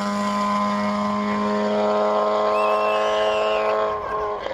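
Classic racing car's engine held at high, steady revs, then dropping away quickly about four seconds in.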